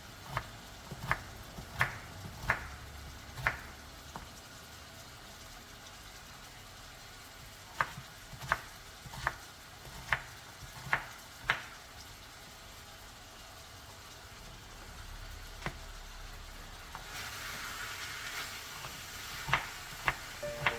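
Kitchen food preparation: sharp taps in short runs, about one every 0.7 seconds, with a steady hiss starting in the last few seconds.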